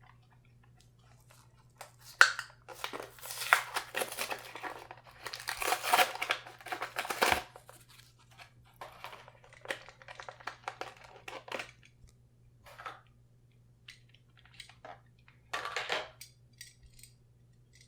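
Plastic and cardboard blister packaging of a diecast toy car crinkling and tearing as it is opened and handled, in irregular bursts with pauses between.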